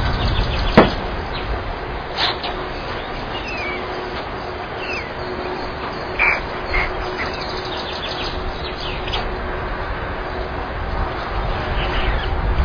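Scattered calls of small wild birds, mostly short chirps with a couple of harsher calls, over a steady background hiss and a faint hum. A single sharp click sounds about a second in.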